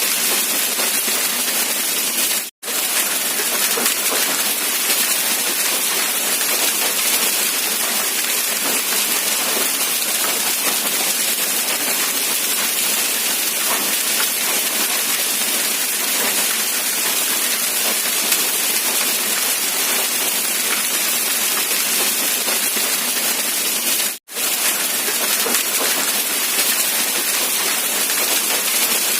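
Steady rain falling, a dense even hiss. It drops out to silence for a split second twice, about two and a half seconds in and again about five seconds before the end.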